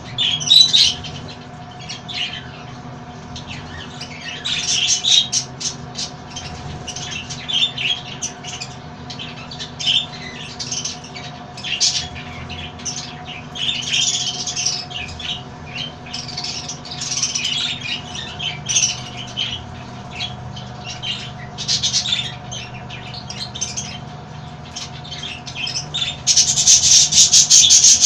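Pet parrots squawking and chirping in short, high-pitched bursts, again and again, over a faint steady hum. Near the end a loud, steady rasping noise takes over.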